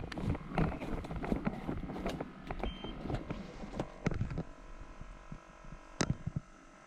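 Footsteps and gear rustling of a player on the move, irregular steps every third to half second, easing off about four and a half seconds in, followed by a single sharp click near the end.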